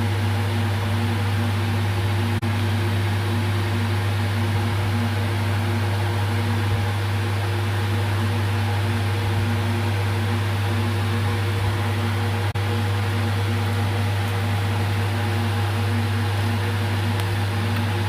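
Steady electrical or mechanical hum: a strong low drone with several fainter steady tones above it, unchanging throughout.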